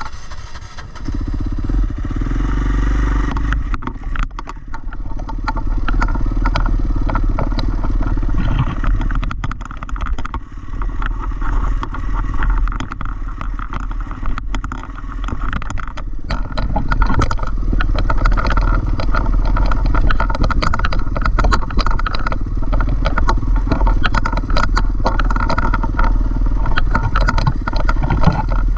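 Dirt bike engine running while riding a trail, with frequent knocks and rattles throughout; the sound grows louder about halfway through.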